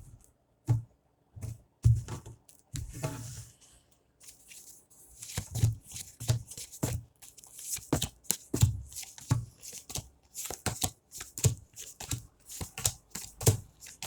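A deck of tarot cards being shuffled by hand. There are a few scattered rustles and taps at first, then from about five seconds in a steady run of shuffling strokes, about two a second.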